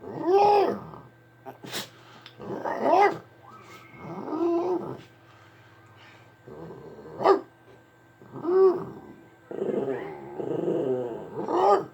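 Dog 'talking' in a series of growly, rising-and-falling vocal calls, each under a second long, with a few short sharp barks among them.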